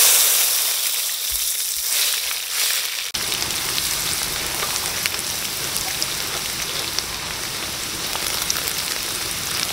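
Chopped garlic, shallots and dried chillies hitting hot oil in a wok. They sizzle loudly at first, then settle into a steady frying hiss as they are stirred, the first sauté of the aromatics.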